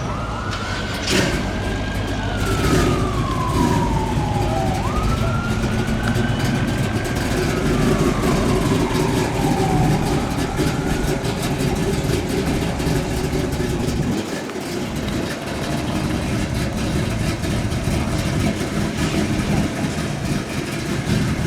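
Emergency vehicle siren wailing: two slow rise-and-fall cycles, then trailing off around ten seconds in, over a steady low rumble of engines and background noise.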